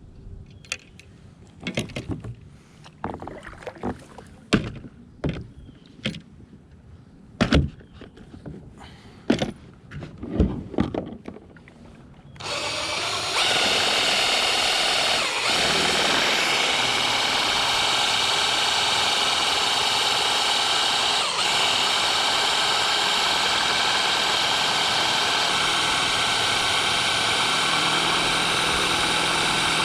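Scattered knocks and clicks, then about twelve seconds in a loud, steady motor starts up and keeps running with a high, even whine.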